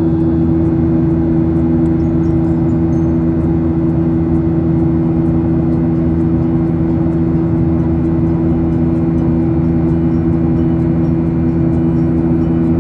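Jet airliner cabin noise: the engines and airflow make a loud, steady drone with a strong low hum that does not change.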